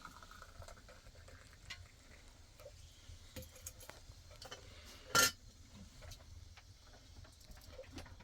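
Dishes and utensils being handled: scattered light clinks and knocks, with one louder knock about five seconds in.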